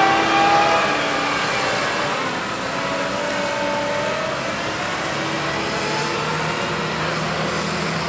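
Diesel engine of a David Brown 1410 tractor running steadily, its pitch wandering slightly, during a tractor pull.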